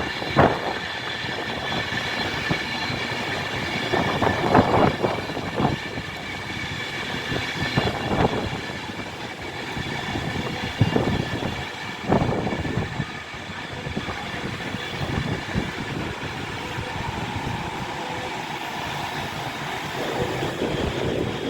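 Class 390 Pendolino electric train running slowly into the platform, its wheels knocking over rail joints and points every few seconds against a steady high whine.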